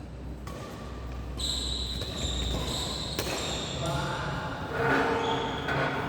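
Sounds of badminton play in an indoor sports hall: high squeaks on the court floor, a sharp racket strike about three seconds in, and players' voices calling out.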